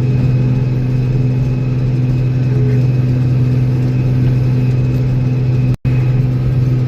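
Old Steiger tractor's diesel engine running at a steady, even pitch, a continuous low drone. The sound drops out for an instant near the end.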